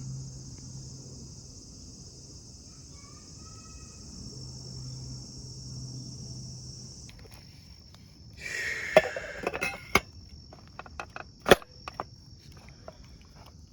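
Steady, high-pitched chirring of late-summer insects. About eight and a half seconds in, a short rustle and a run of sharp clicks and knocks from gear being handled cut in over it.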